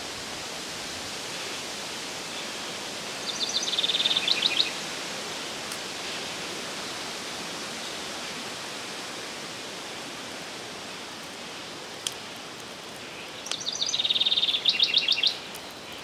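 A songbird sings the same short phrase twice, about ten seconds apart: a brief buzz followed by a quick run of high, rapidly repeated notes. Under it is a steady outdoor hiss, with a single sharp click near the end.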